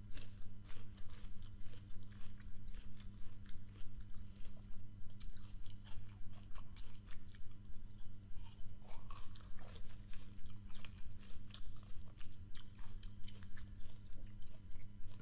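Biting and chewing crisp raw fruit: repeated crunching with many small crackles in a steady chewing rhythm, over a faint steady low hum.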